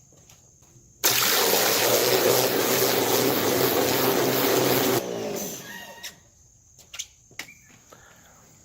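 A water jet spraying hard into a wash bucket to foam up car shampoo. It starts abruptly about a second in, runs steadily for about four seconds, cuts off, and a short fading wash of water follows.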